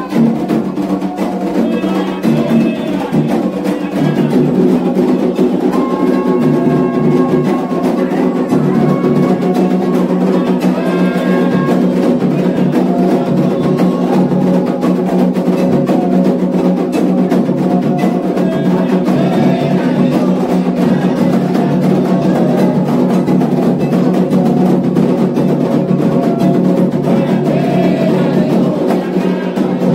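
Candomblé atabaque drumming for Xangô, steady and continuous, with a struck bell keeping time and sung chant phrases rising over the drums every few seconds.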